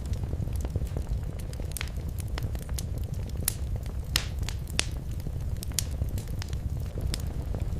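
Fireplace fire crackling: scattered sharp pops and snaps over a steady low background noise, with a few louder pops around the middle.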